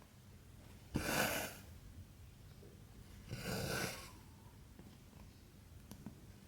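Cotton embroidery thread pulled through cross-stitch fabric twice, each pull a short rasping swish lasting about half a second.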